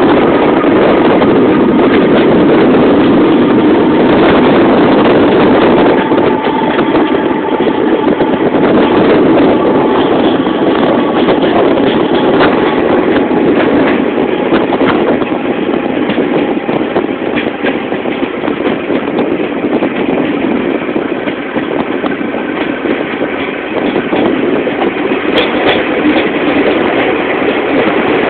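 Train running through a long railway tunnel: a loud, steady rumble with many scattered clicks.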